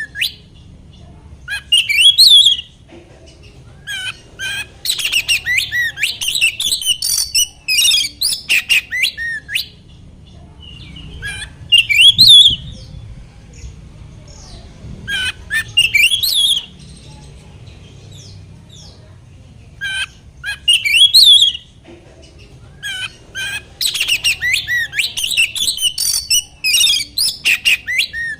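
Oriental magpie-robin (kacer) singing: loud phrases of rapid, varied whistles and harsh chattering notes, in bursts of one to several seconds separated by short pauses. A faint steady low hum lies underneath.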